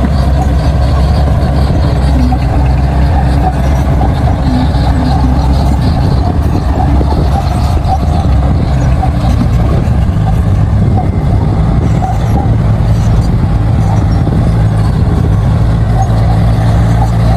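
Crawler bulldozer's diesel engine running loud and steady while the dozer works, pushing soil; its pitch shifts slightly about two-thirds of the way through.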